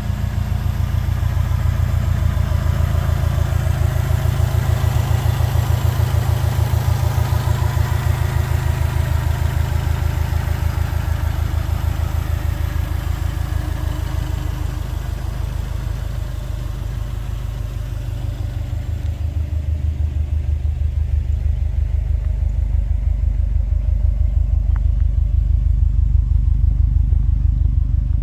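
2014 Subaru Impreza WRX's 2.5-litre turbocharged flat-four idling steadily with an even low pulse. Heard first at the open engine bay, then at the rear quad exhaust tips, where the deep exhaust note grows louder over the last few seconds.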